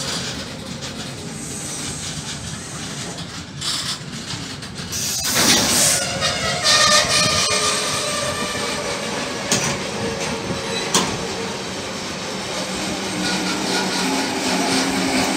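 Loaded double-deck car-carrier wagons of a freight train rolling past, wheels clattering on the rails, louder around five to seven seconds in, with a couple of sharp knocks near the end.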